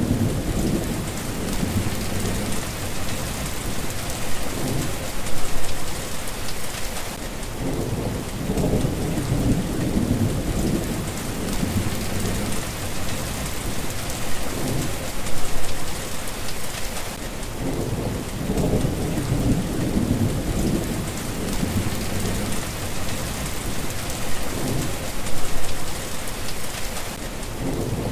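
Steady rain with low thunder rumbling underneath, swelling louder three times, about every ten seconds.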